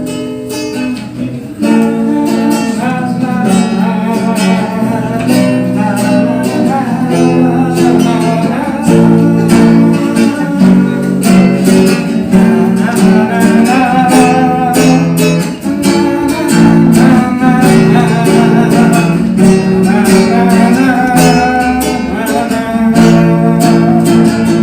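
Acoustic guitar strumming chords, playing the introduction to a song.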